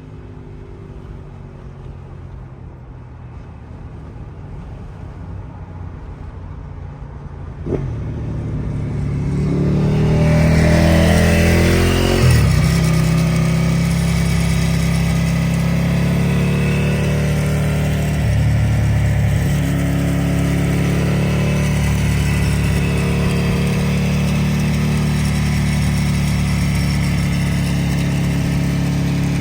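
Ducati 1098R's L-twin engine through a Termignoni full racing exhaust. The engine note is a quieter rumble at first, then grows much louder from about eight seconds in with a sharp click and a rise in pitch. About twelve seconds in it settles into a steady, loud, deep running note that continues.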